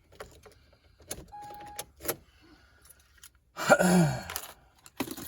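Car seat belt buckle being tested: sharp metal clicks and clinks of the latch plate going into and out of the buckle, with a short steady beep partway through. About four seconds in comes the loudest part, a louder metallic rattle with a low sound that falls in pitch.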